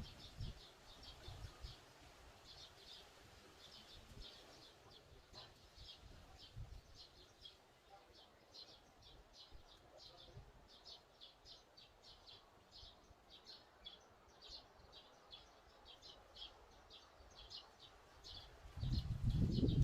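A small bird chirping over and over, short high chirps at about two to three a second. Near the end a loud low rumble comes in, like wind or handling noise on the microphone.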